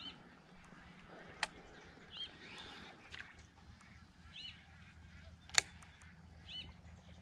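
A bird calling a short two-part note four times, about every two seconds, with two sharp clicks: one about a second and a half in and a louder one about five and a half seconds in.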